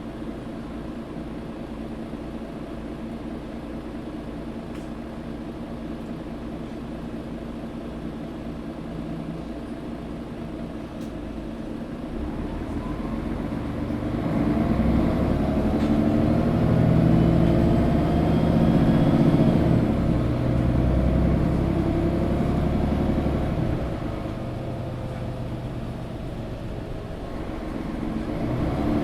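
Mercedes-Benz O530 Citaro G facelift articulated bus heard from inside the passenger cabin. The engine idles steadily at first. About twelve seconds in, the bus pulls away and the engine rises in pitch as it accelerates. It eases off a little after twenty seconds and picks up again near the end.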